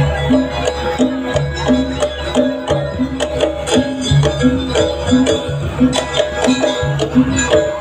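Gamelan music accompanying a Barong dance: a short melodic figure on tuned metal percussion repeats steadily over regular drum beats.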